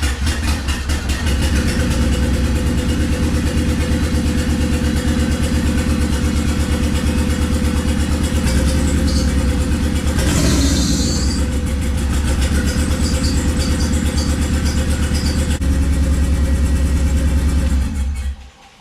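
Turbocharged Honda D15B2 four-cylinder engine running at a loud, steady idle with a slight misfire, on its first run after the engine swap. There is a brief hiss about ten seconds in, and the engine is shut off and cuts out suddenly near the end.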